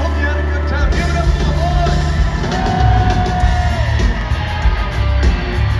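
Live country-rock band playing loudly. A held bass note gives way to the full band and drums about a second in, and a voice sings a long held note in the middle.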